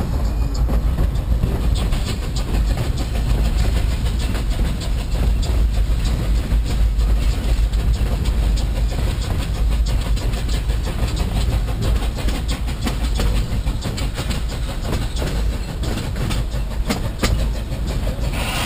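Narrow-gauge train running: a steady low rumble with many light clicks of the wheels over the rail joints.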